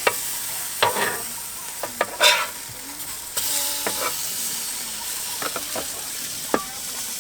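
Burger patties sizzling in a frying pan, with a utensil clacking and scraping against the pan several times. The sizzle grows louder about halfway through.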